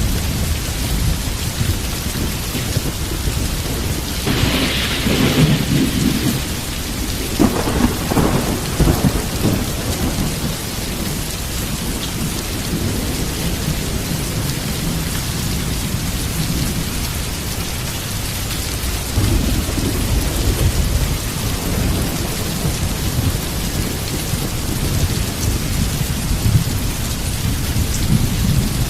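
Heavy rain falling steadily with thunder rumbling underneath. A sharper thunderclap comes about four seconds in, rolling on for several seconds, and another rumble swells about twenty seconds in.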